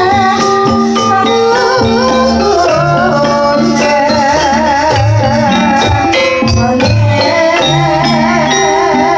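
Javanese jaranan gamelan music: a high melody line with a wide vibrato wavers over sustained pitched tones, repeated low drum strokes and quick metallic percussion.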